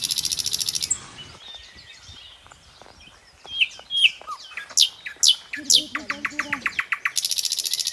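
Birds calling: a rapid, high trill about a second long at the start and again near the end, with sharp falling chirps in between.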